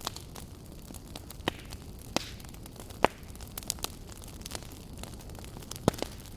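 Wood fire burning in a fireplace, crackling: irregular sharp pops and snaps over a steady low rush, with the loudest pops about three seconds in and again near the end.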